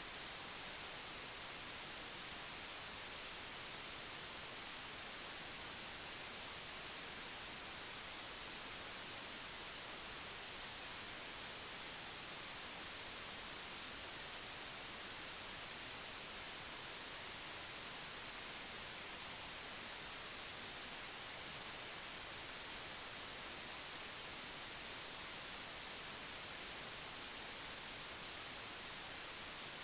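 Steady, even hiss, strongest in the treble, with no other sound standing out.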